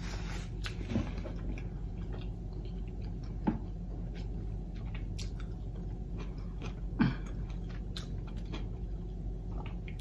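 A person chewing a mouthful of Philly cheesesteak, quiet wet chewing with scattered small mouth clicks and a few brief louder smacks.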